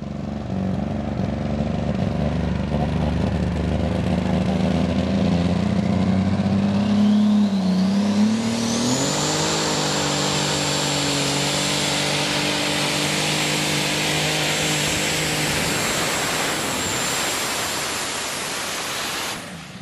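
Light Modified pulling tractor's engine running hard under load during a pull, stepping up in pitch about eight seconds in. A high whine climbs over a few seconds, then holds steady above the engine until it drops away shortly before the end.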